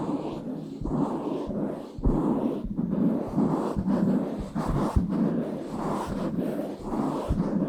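Hands rubbing and scratching directly on a bare microphone, making rough, muffled swishing strokes that swell and fade in uneven patterns, with a few short low thumps where the mic is knocked.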